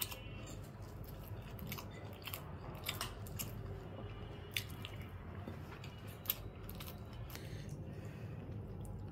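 A person chewing rice with the mouth closed, heard close up, with the soft squish of fingers mixing rice on a plate. A few sharp clicks stand out, the loudest about three seconds and six seconds in.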